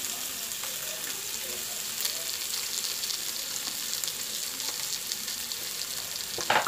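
Sliced bitter gourd (ampalaya) and garlic sizzling in hot oil in a wok: a steady frying hiss with small crackles. A sharp knock comes near the end.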